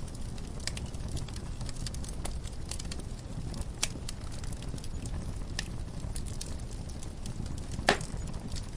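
Wood fire crackling in a fireplace: scattered sharp pops and snaps over a low steady rumble, with one louder pop near the end.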